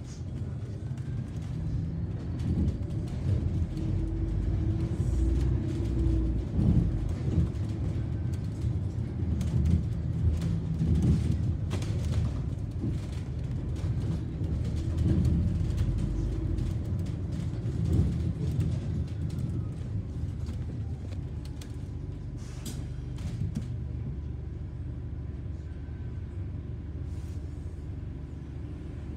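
London bus on the move, heard from on board: a low engine and road rumble with frequent light rattles. It swells through the middle and eases toward the end.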